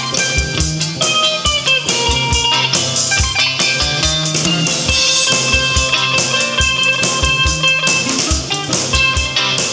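A folk band playing an instrumental break with no singing: quick plucked notes from guitar, mandolin and a three-string cigar box guitar over a steady drum beat.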